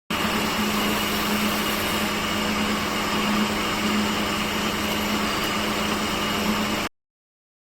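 Woodworking machine's motor running at a steady speed, a constant hum under even machine noise, with no change in load; it cuts off abruptly near the end.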